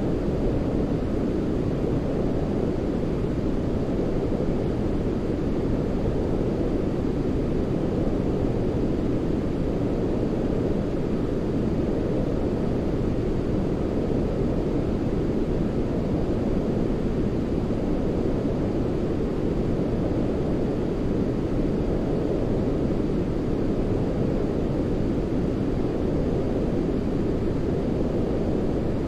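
Continuous sleep-aid noise: a steady, even rushing weighted toward the low end, like a deep white or brown noise, with no breaks or other sounds.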